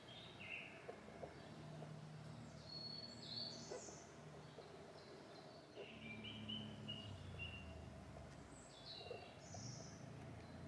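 Faint outdoor ambience with scattered short high bird chirps, several in quick runs about three seconds in and again near the end, over a faint low hum that comes and goes.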